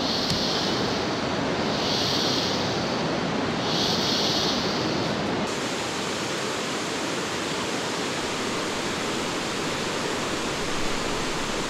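La Fortuna waterfall rushing in a steady roar of falling water. In the first half a high-pitched pulse repeats about every two seconds. About halfway through the sound changes abruptly and the pulses stop.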